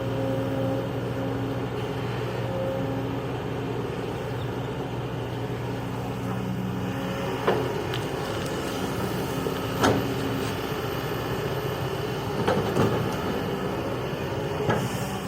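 Kobelco excavator's diesel engine running steadily, with five sharp knocks spread over the second half.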